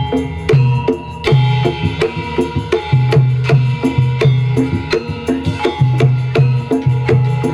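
Javanese jaranan gamelan music led by kendang hand drums: deep drum strokes and sharp slaps in a quick, driving rhythm over held metallophone notes.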